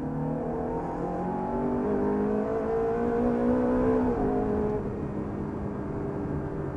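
Ferrari 430's V8 engine heard from inside the cabin, pulling hard under full acceleration with its note climbing in pitch. About four seconds in the note drops sharply as the gearbox shifts up, and it then runs on steadier and quieter.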